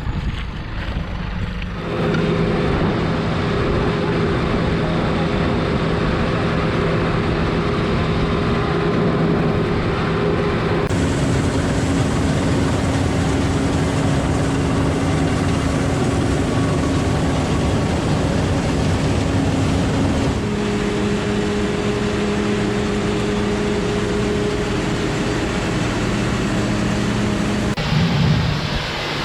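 Heavy farm machinery running steadily at working speed, a constant engine drone with a low hum. The pitch and tone change abruptly three times, as if cutting from one machine to another.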